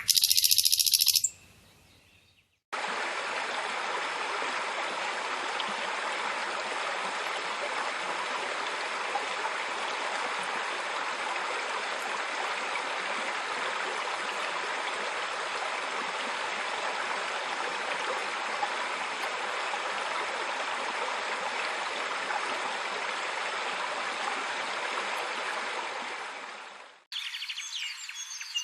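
Steady rushing noise of running water, like a stream, that starts abruptly a few seconds in and cuts off near the end. A short burst of high chirping at the very start is cut off first.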